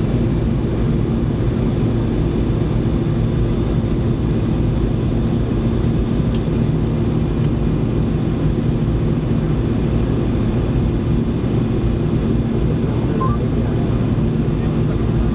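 Jet airliner cabin noise in flight: a steady engine and airflow roar with a constant low hum, unchanging throughout.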